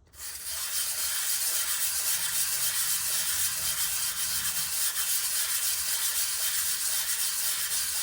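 Glazed motorcycle brake pad being rubbed on P400 emery paper over a flat board: a continuous sanding sound, taking the glaze off the pad's friction face.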